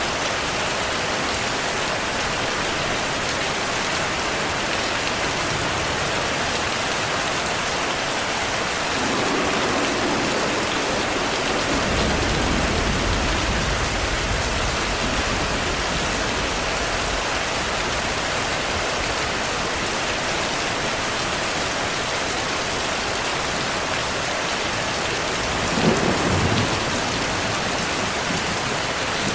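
Steady heavy rain with thunder: a low rumble rolls in about twelve seconds in, and a short sharp thunderclap comes near the end.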